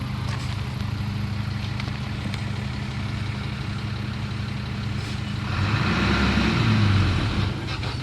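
Diesel engine of heavy earthmoving machinery running steadily. A little past the middle it revs up and grows louder for about two seconds, then drops back.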